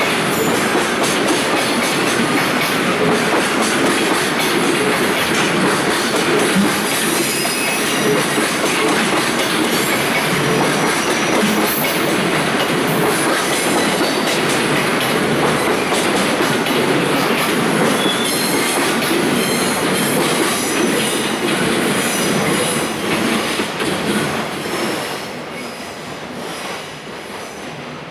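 Loaded JR Freight Koki container wagons rolling past, wheels clattering over the rail joints with some high wheel squeal; the sound fades near the end as the tail of the train moves away.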